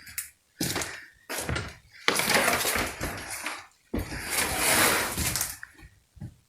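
Several knocks and clatters of hard objects being handled or stepped on, then two long scraping rustles of about a second and a half each, and one more knock near the end.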